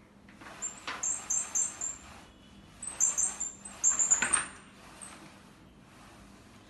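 A small bird calling in two quick series of short, very high chirps, about four notes a second, over a faint steady hiss of rain.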